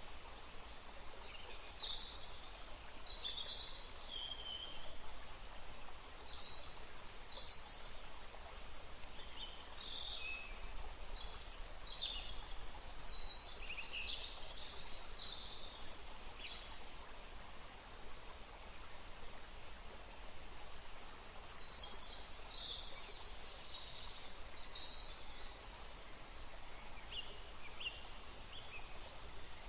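Several birds chirping and singing over a steady rushing background of wind in trees and flowing water. The birdsong comes in busy clusters with a lull a little past the middle.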